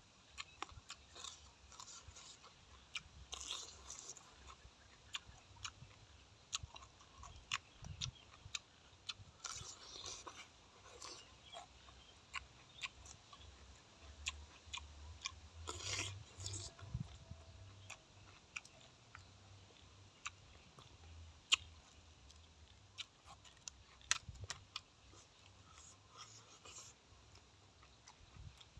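Close-up chewing of crisp raw vegetables with fried fermented pork: scattered crunches and wet mouth clicks, with a few louder crunchy bites.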